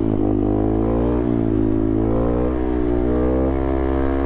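Motorcycle engine running under way, its pitch rising and falling gently as the throttle changes.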